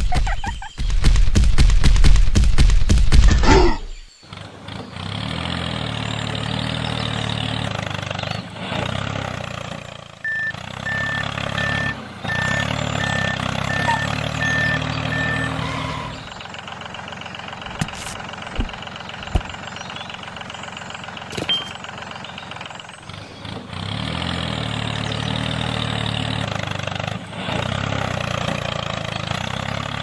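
Tractor engine sound effect running steadily, loud and fast-chugging for the first three seconds or so. A reversing alarm beeps about eight times partway through, as the tractor backs up to hitch a trailer.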